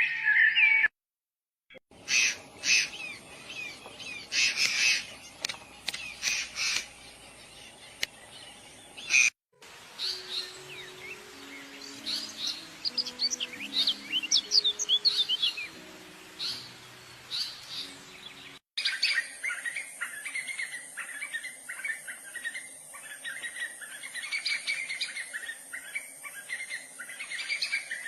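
Several clips of birds calling and chirping, cut together with brief silent breaks between them; a soft melody of low notes plays under the middle clip, and a steady high whine runs under the last one.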